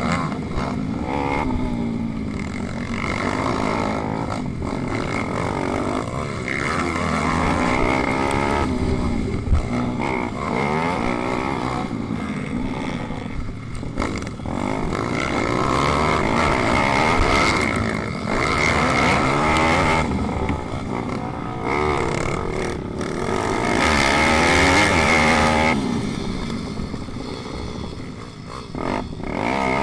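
Several pit bike engines racing, their pitch repeatedly rising under acceleration and dropping off as the riders shift and brake, with the engines overlapping.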